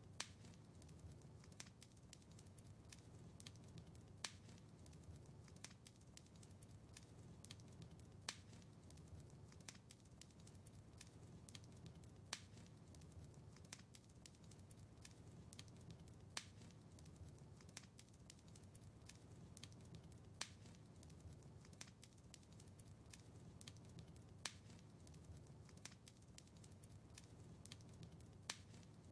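Wood fire in a fireplace crackling faintly: a steady low rumble of flames with frequent small snaps, and a sharper pop about every four seconds.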